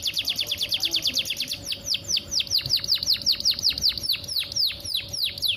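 Domestic canary singing: a fast trill of short high notes, then about a second and a half in it slows into a run of notes that each sweep down in pitch, about four or five a second.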